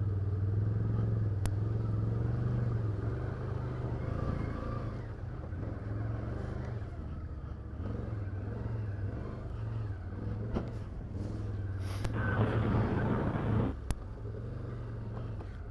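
Can-Am Outlander 850 ATV's V-twin engine running steadily at low speed, with a brief rush of noise about twelve seconds in and a couple of sharp clicks.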